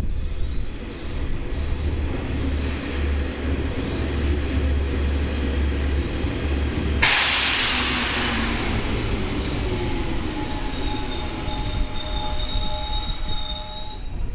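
Seibu 101-series electric train rolling slowly along the platform with a low rumble. About halfway through comes a sudden loud blast of air that hisses away over a couple of seconds, and near the end a thin, high squeal from the wheels as the train keeps moving.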